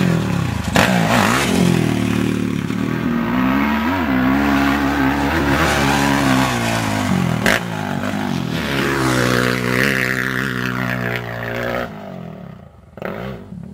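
Dirt bike engine revving hard, its pitch rising and falling with the throttle and gear changes, then dropping away near the end.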